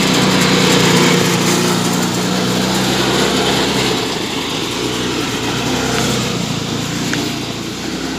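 Tractor engine running steadily under way, a little quieter and less even from about halfway through.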